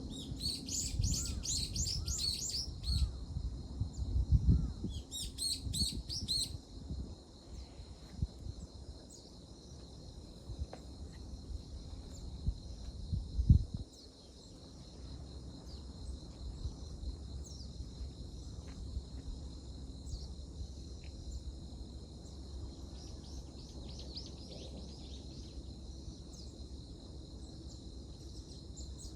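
Outdoor dawn ambience: a bird sings two quick runs of chirps in the first seconds and a fainter run near the end, over a steady high drone of insects. Irregular low rumbles and bumps fill the first half, with one sharp bump around the middle.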